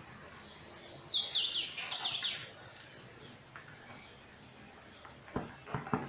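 A bird singing: a quick run of short high notes falling in pitch over about three seconds, then a shorter high run. Near the end, a few sharp clicks from the blender's wiring terminals being handled.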